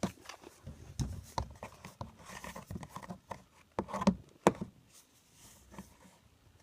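Hard plastic parts of a shop vac noise muffler being pushed, twisted and knocked against the vac's blowing port: a string of irregular clicks, knocks and scrapes, the loudest around four seconds in. The muffler is not fitting the port.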